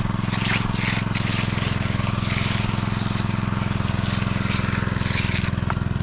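An engine running steadily at a constant speed, with short scraping sounds over it several times.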